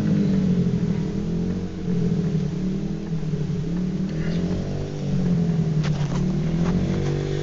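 Motorcycle engine running, its pitch rising and falling as the throttle is opened and eased, with a few sharp clicks about six seconds in.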